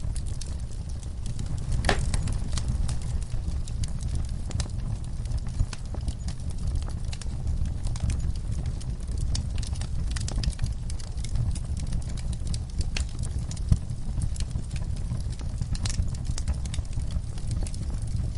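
Wood fire crackling in a fireplace: irregular sharp pops and snaps over a steady low rumble of the flames, with a louder pop about two seconds in and another near the end.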